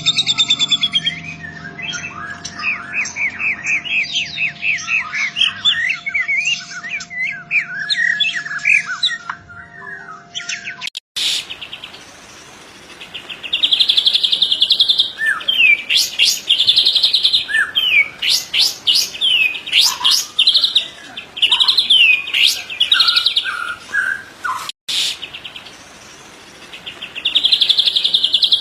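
White-rumped shama (murai batu) singing loudly and energetically, alternating rapid-fire buzzy trills with sharp whistled notes that sweep up and down. This is the full 'tembakan' song prized in a singing bird. About a third of the way through the song cuts abruptly to another stretch of singing.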